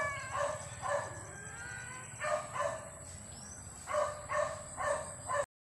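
Small dog yapping: a rapid series of short, high barks in clusters of two or three, stopping suddenly just before the end.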